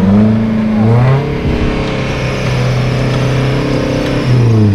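Off-road 4x4's engine revving up about a second in, held at a steady high speed for about three seconds, then easing back near the end, as the vehicle works a winch recovery with its winch line under tension.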